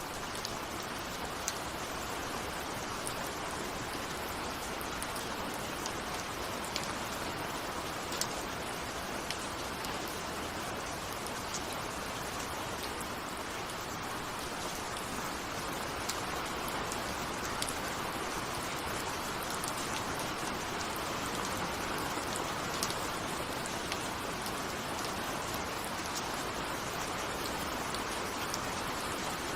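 Steady rain with individual raindrops ticking sharply here and there, heard against a window.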